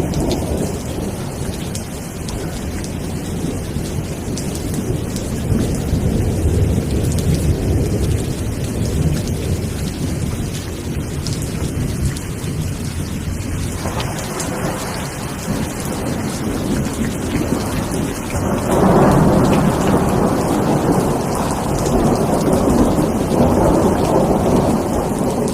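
Steady rain with a deep, continuous rumble underneath. About three-quarters of the way through, the sound swells louder and brighter.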